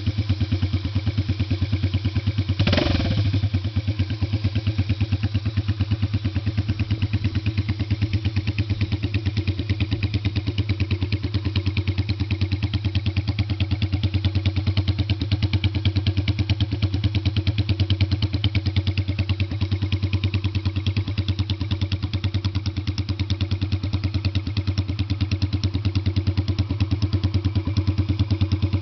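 Yamaha Virago 250's V-twin idling through Easyriders drag pipes with a steady, fast exhaust pulse, blipped briefly once about three seconds in.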